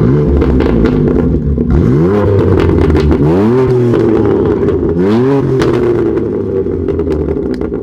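BMW M2 Competition's twin-turbo straight-six running through an Active Autowerke aftermarket exhaust, idling and blipped three times, each rev rising and falling back, with sharp crackles as the revs drop. Loud, with a deep exhaust note.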